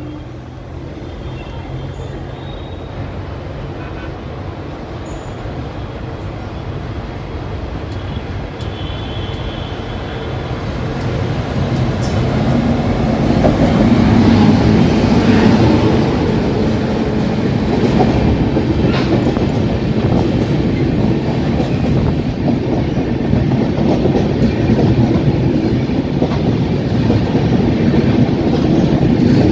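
Express passenger train running through a station at speed without stopping. It grows louder for about the first half as it approaches, then holds steady as the coaches pass close by.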